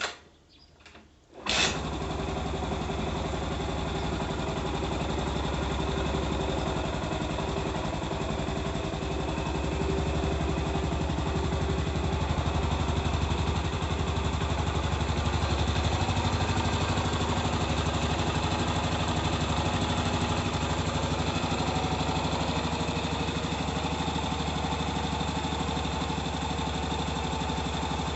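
Yamaha SR400's fuel-injected air-cooled single-cylinder engine being kick-started: a knock and a few lighter knocks, then it fires about a second and a half in and settles into a steady idle.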